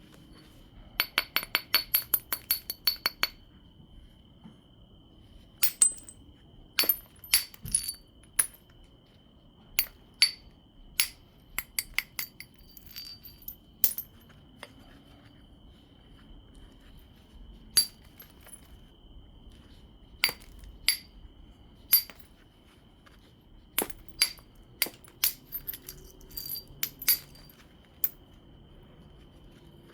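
Obsidian biface being knapped: sharp, glassy clicks of the stone being struck. About a second in comes a quick even run of about a dozen light clicks, then single or paired clicks every second or so.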